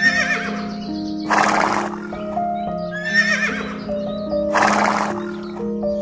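A horse whinnying twice, about three seconds apart, each wavering call followed by a short breathy burst. Background music with sustained notes plays throughout.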